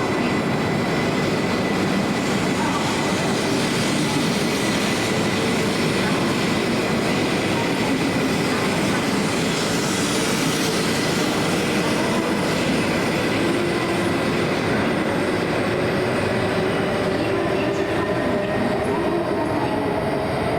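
E2 series Shinkansen running, heard from inside a passenger car: a steady rolling and running noise with a faint motor whine slowly rising in pitch as the train gathers speed.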